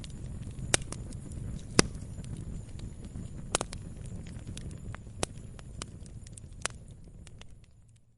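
Wood log fire burning: a steady low rumble of the flames with sharp crackles and pops every second or so, the loudest about two seconds in. The sound fades out to silence right at the end.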